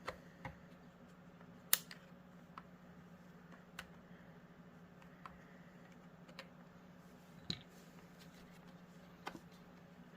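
Scattered clicks and taps of a screwdriver working under the snap-fit plastic panels of a Theragun massage gun, the loudest nearly two seconds in, over a faint steady hum.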